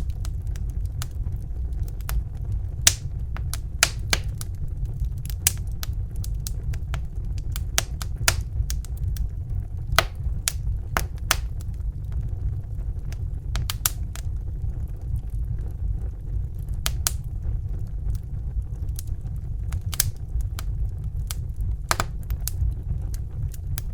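Crackling fire: irregular sharp pops and snaps, a few of them loud, over a steady low rumble.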